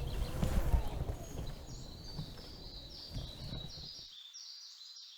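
Birds chirping in a rapid series of short, high notes from about two seconds in, over a low rumble that fades and cuts off about four seconds in.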